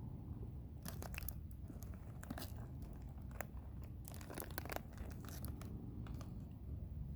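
Bonfire crackling: irregular sharp pops and snaps, some in quick clusters, over a low steady rumble.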